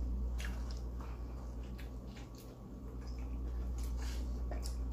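A person chewing a mouthful of cheesesteak sandwich close to the microphone: a run of scattered short mouth clicks over a steady low hum.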